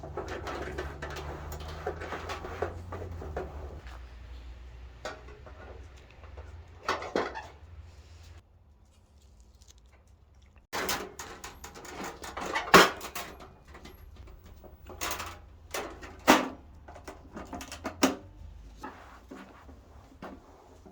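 Irregular knocks and clatters of objects being handled and set down, with rustling in the first few seconds and a run of sharp knocks in the second half, the loudest about two-thirds of the way in.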